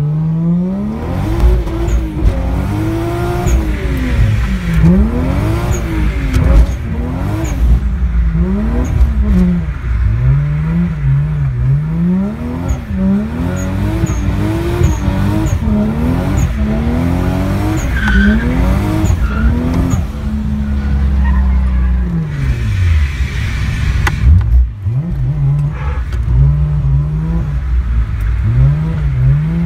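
Toyota 1JZ straight-six in a BMW E36 Touring, through a 3-inch straight pipe, revving up and falling back again and again while drifting, with tyres squealing. Heard from onboard the car. About twenty seconds in the revs hold steady for a couple of seconds, then drop away before climbing again near the end.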